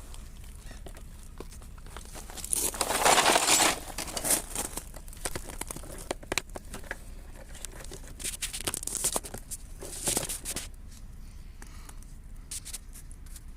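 Irregular clicks, knocks and rustling of hands and tools working the propeller nut onto the shaft, with a louder rustling scrape about three seconds in.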